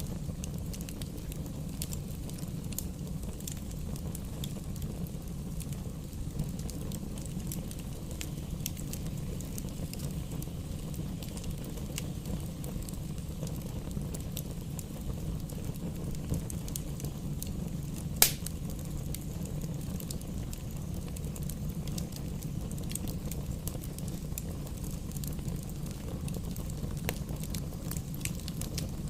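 Bonfire burning: a steady low rumble of flames with scattered small crackles, and one loud sharp pop a little past the middle.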